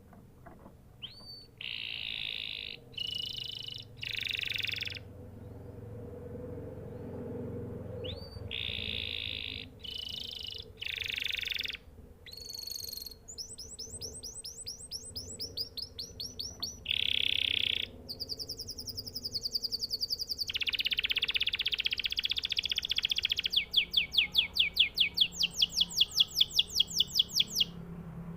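Domestic canary singing a long run of varied phrases, moving into fast trills in the second half, with the loudest rapid trill near the end.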